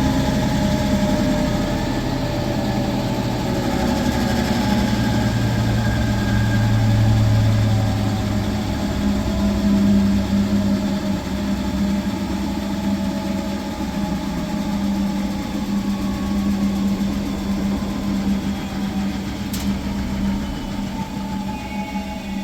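Electrolux professional washing machine spinning its drum in the final minutes of the wash cycle: a steady motor hum with faint whining tones that slowly drift in pitch, and a brief click near the end.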